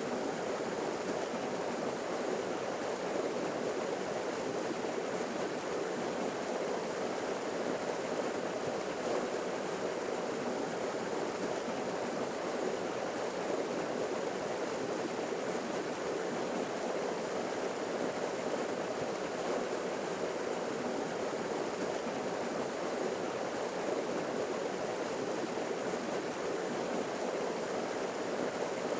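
Forest waterfall: water falling and rushing over rocks in a steady, unbroken roar.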